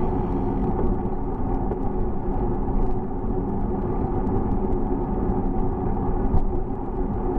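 Steady rumble of riding a bicycle: wind on the microphone and tyre noise on the road, with faint scattered ticks.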